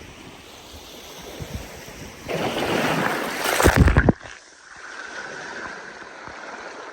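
Sea surf washing on a beach, with wind on the microphone. A louder surge of surf and wind builds about two seconds in and cuts off abruptly at about four seconds, leaving a quieter hiss.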